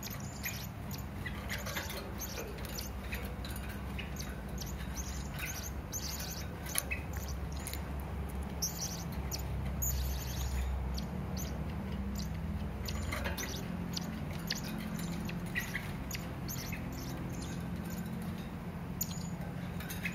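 Serindit (hanging parrot) giving many short, sharp, high-pitched calls in quick succession, over a steady low hum.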